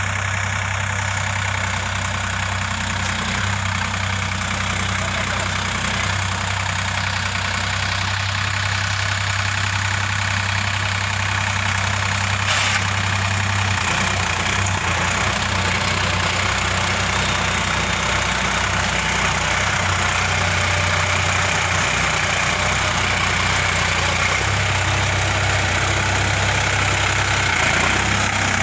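Sonalika DI 50 RX tractor's diesel engine running steadily. Its low hum weakens and shifts about halfway through, then comes back strongly near the end.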